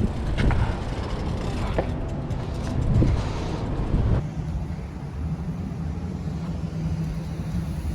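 Car running with a steady low rumble; about four seconds in the higher noise drops away and a low steady hum is left.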